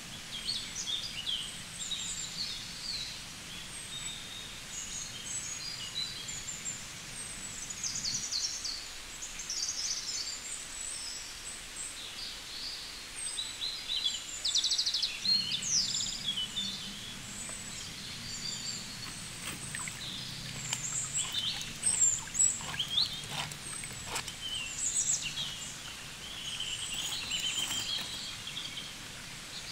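Many small birds chirping and twittering in short calls and quick pitch sweeps, over a faint steady low hum.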